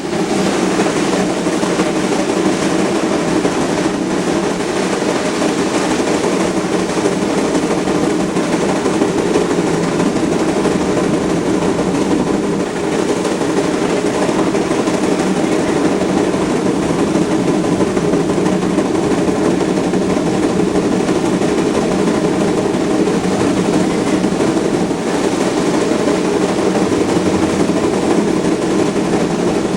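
Passenger train pushed by a Heisler geared steam locomotive, running steadily: a continuous rumble with no separate beats.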